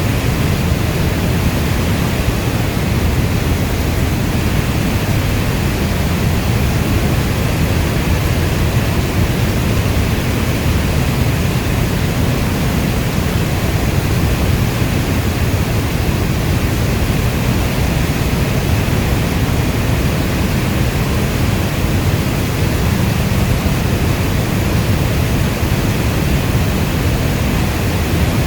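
Steady heavy rainfall, an even, unbroken rush of noise with most of its weight in the low end.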